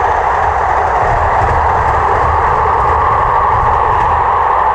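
Passing passenger train: steady, loud running noise with a low rumble underneath.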